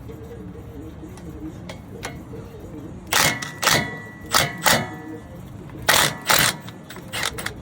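Sharp metallic clanks from hand tools on the brake hardware: about three seconds of quiet, then six loud short bursts in pairs, the first with a brief ring, and a few smaller clicks near the end.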